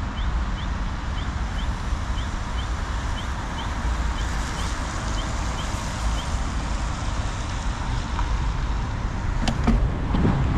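Ride noise from a bicycle-mounted action camera in the rain: wind rumbling on the microphone over a steady hiss of tyres and traffic on wet city streets. A faint high chirp repeats about twice a second through the first half, and a few sharp clicks come near the end as the wind rumble grows louder.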